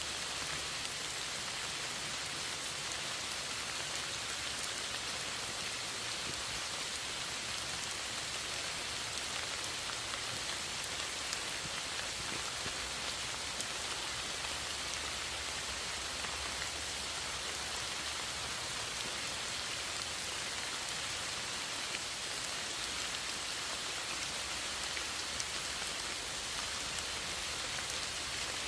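Steady rain falling, an even hiss of drops on a surface with faint scattered drop ticks and no change in strength.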